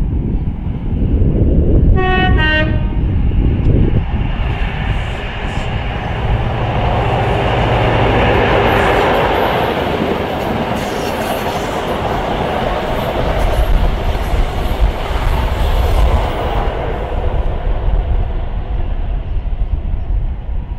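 CrossCountry HST (InterCity 125) sounding its two-tone horn, a high note then a low one, about two seconds in. The train then passes on the line, the rush of engines and wheels on rails building to a peak near the middle and easing off in the last few seconds.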